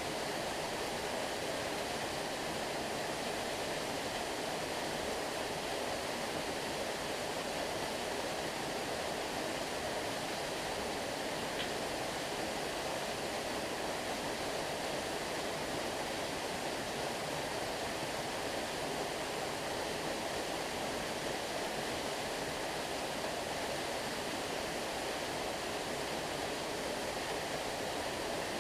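Steady, even rushing of flowing stream water.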